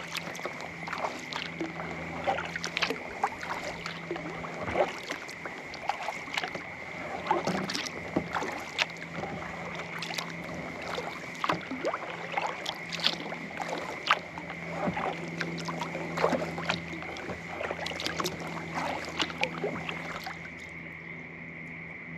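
Kayak paddle strokes on a lake: paddle blades dipping and pulling through the water with many small splashes and drips, stopping near the end. A steady high-pitched tone runs beneath.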